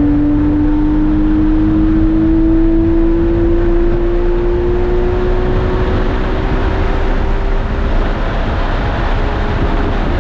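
Porsche 997 GT3's flat-six engine accelerating under load, its pitch climbing slowly and steadily through one long gear, over a steady rush of noise.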